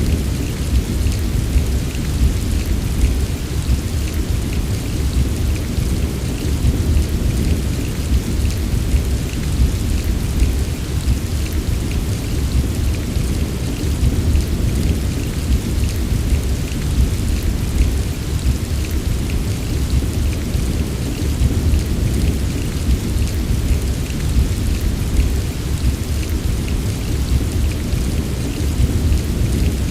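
Steady heavy rain of a thunderstorm, with a deep, continuous rumble underneath and no distinct claps.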